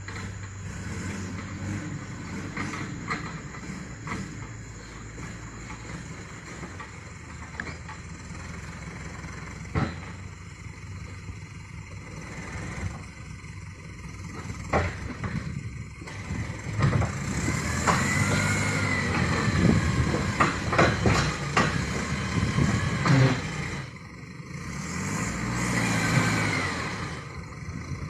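Engine of a vehicle loaded with oil palm fruit running over rough ground, with several sharp knocks. From about halfway through it revs harder, its pitch rising and falling.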